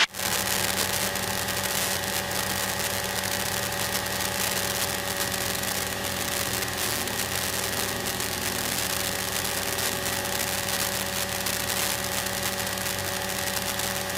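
Small single-engine propeller plane's engine and propeller droning steadily in cruise flight, heard from inside the cockpit as an even hum with several held tones.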